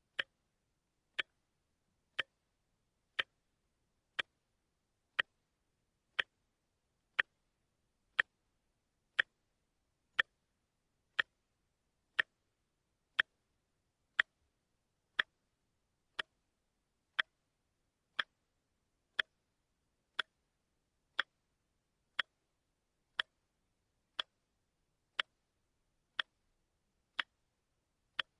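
A watch ticking steadily, one sharp click every second.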